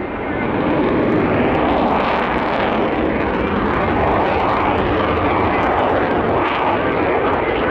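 Jet noise from a Canadian CF-18 Hornet's twin turbofan engines in display flight: a loud, steady rushing sound that builds about half a second in.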